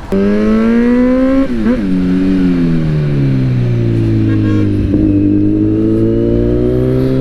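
Motorcycle engine pulling away: the revs climb, there is one gear change about a second and a half in, then the revs drop off and slowly build again.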